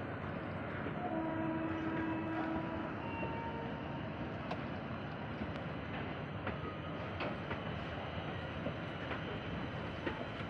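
Indian Railways train passing with a steady rumble of wheels on track. About a second in, its horn sounds briefly for roughly two seconds, and later the wheels click now and then over rail joints.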